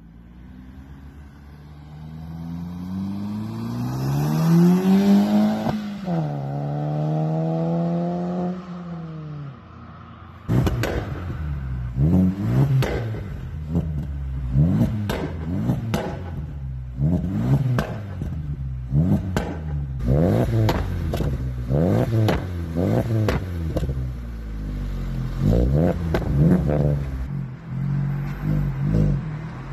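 Opel Corsa C 1.4's four-cylinder petrol engine accelerating hard, its pitch climbing through a gear, dropping at a gear change about six seconds in and climbing again. After an abrupt cut about ten seconds in, the standing car's engine is blipped over and over, roughly one quick rev a second.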